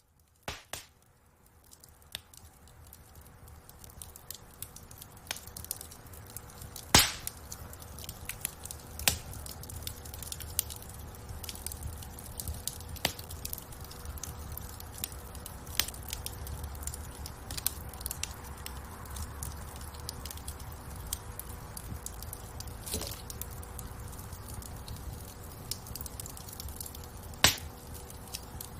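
Wood fire burning in a fireplace: irregular crackles and pops over a low, steady rumble of flames, fading in at the start. Two pops, about seven seconds in and near the end, are the loudest.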